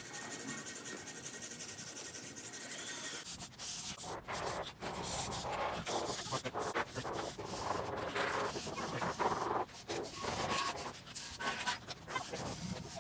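Rust being scrubbed off an antique Hay Budden anvil: a steady hiss, then from about three seconds in, irregular rubbing and scraping strokes.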